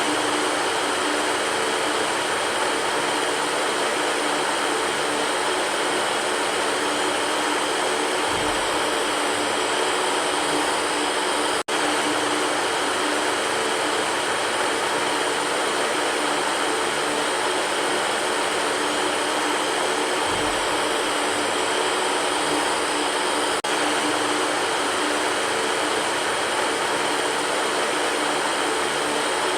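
Electric fan running steadily: an even whirring hiss with a faint steady hum in it. It is broken by a split-second dropout about twelve seconds in.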